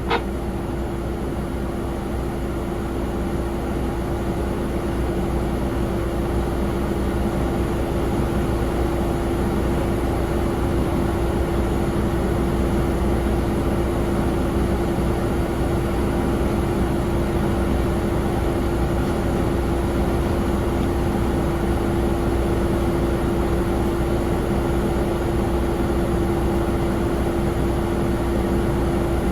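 Steady jet aircraft engine noise: a constant hum with one strong drone, growing slightly louder over the first several seconds. There is a short click right at the start as the airband radio transmission cuts off.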